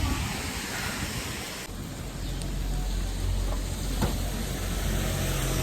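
Light rain falling over street ambience, with a steady low rumble of traffic that grows louder about two seconds in.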